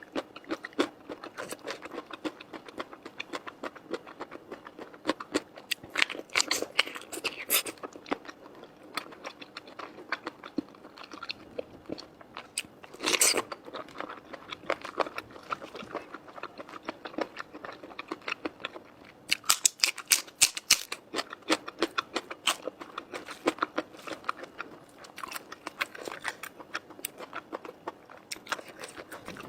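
Close-miked eating: a person chewing and biting noodles, with irregular wet clicks and crunches. There is a louder burst about 13 seconds in and a quick run of clicks around 19 to 21 seconds.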